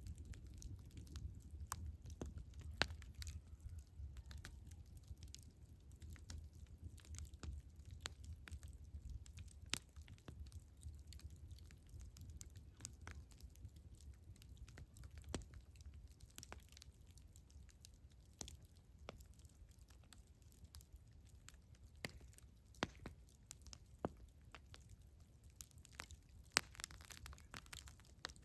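Campfire crackling: scattered, irregular pops and snaps of burning wood over a faint low rumble that eases about halfway through.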